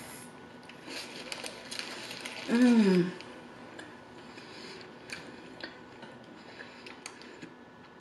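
Close-miked chewing of a bite of burger, with small wet mouth clicks and the paper wrapper rustling. About two and a half seconds in, a short loud hum of enjoyment that falls in pitch.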